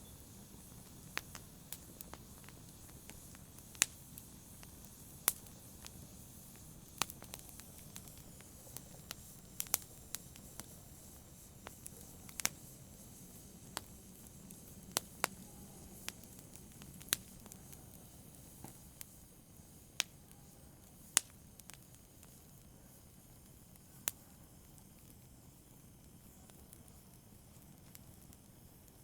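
Wood fire crackling: irregular sharp pops and snaps over a faint steady hiss, with the pops dying away in the last few seconds.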